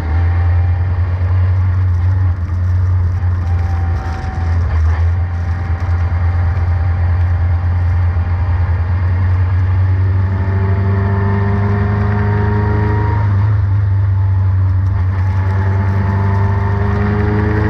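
Formula Renault race car running at speed in the rain over a heavy, steady low rumble. From about ten seconds in, the engine note climbs several times in a row as the car accelerates through the gears.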